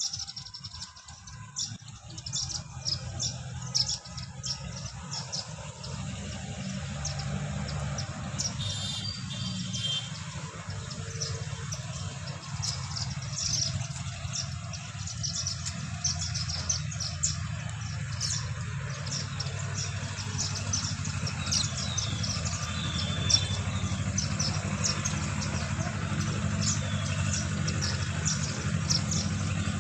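Many small birds chirping together in short, rapid calls over a steady low hum.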